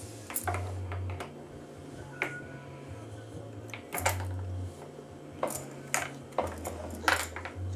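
Toy car's electronic engine sound, a low synthetic hum that jumps up and down between a few set pitches, with scattered sharp plastic clicks and taps.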